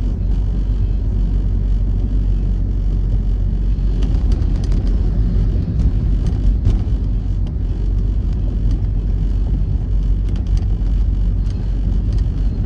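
Steady low rumble of a motor vehicle, with scattered light ticks through the middle.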